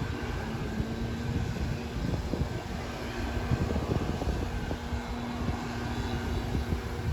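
Jet airliner's engines running steadily, a continuous rush with a faint steady whine.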